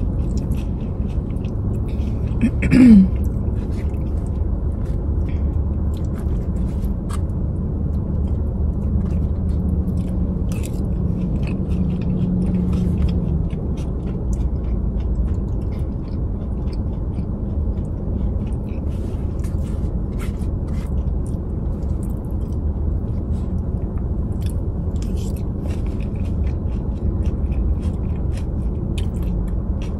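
A person chewing and biting into a rice-and-steak bowl, with small clicks of a fork against the bowl, over a steady low rumble in the car cabin. About three seconds in there is a brief, louder sound that slides down in pitch.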